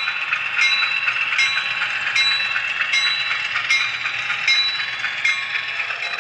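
HO scale camera car rolling along model railroad track: a steady high whine of wheels and drive, with a sharp click about every three-quarters of a second.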